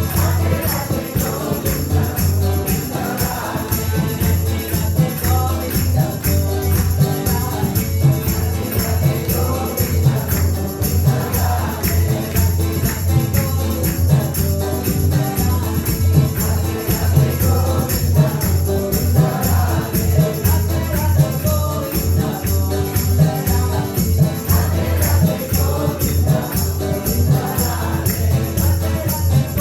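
Upbeat devotional kirtan music: a steady drum beat, continuous fast jingling percussion and held tones, with group chanting.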